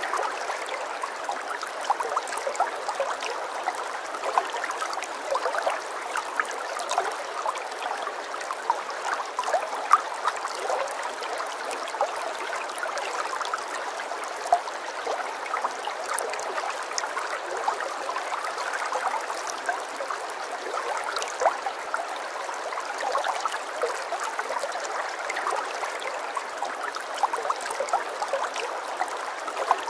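Running water, a small stream trickling and splashing steadily, with many small splashy ticks over an even rush and no deep rumble.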